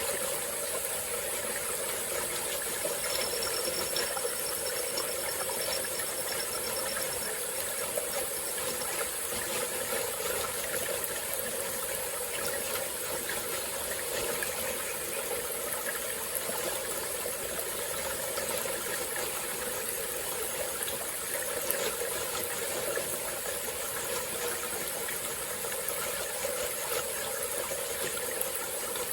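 Small forest stream flowing steadily, a continuous rush of running water. A faint, high, thin trill sounds briefly a few seconds in.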